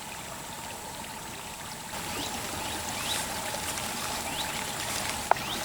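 Steady trickle of running water, with a few faint short rising chirps in the middle and a single sharp click near the end.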